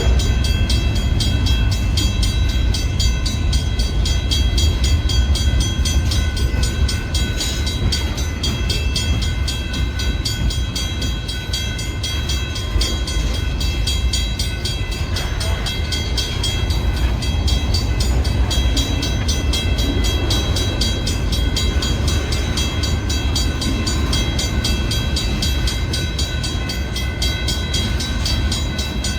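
Long manifest freight train's cars rolling past on the rails: a steady, loud low rumble with faint, steady high ringing tones over it.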